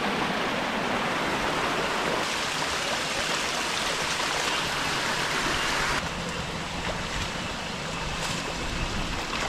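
A small forest stream rushing steadily. About two-thirds of the way through, the sound abruptly drops to a quieter rush.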